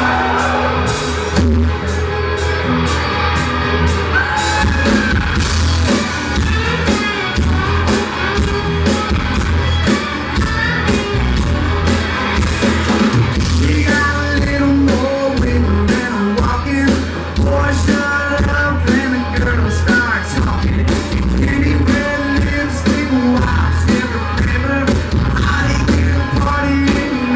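Live country-rock band playing a song at full volume, with a steady drum beat, heavy bass and lead vocals, captured as a loud, muddy audience recording.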